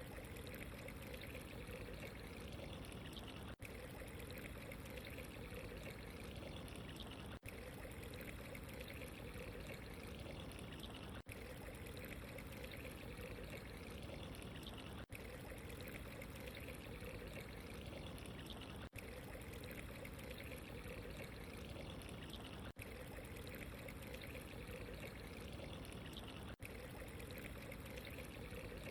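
Steady running water, trickling and pouring without a break, with a brief dip in level about every four seconds.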